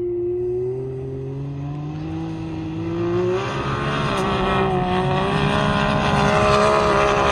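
A motor vehicle engine running, its pitch climbing slowly as it revs up and growing louder after about three seconds, then cutting off suddenly at the end.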